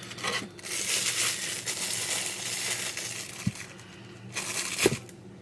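Packaging crinkling and rustling as a small item is unwrapped and handled, then a sharp knock near the end.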